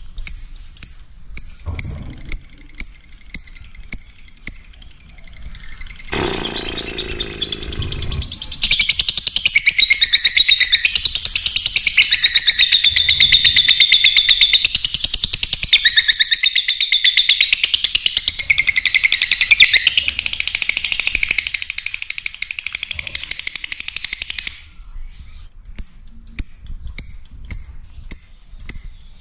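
Lovebirds chattering: a long stretch of dense, rapid, high-pitched chatter in the middle. It is framed by runs of short, high sounds repeated evenly about two to three times a second, at the start and again near the end.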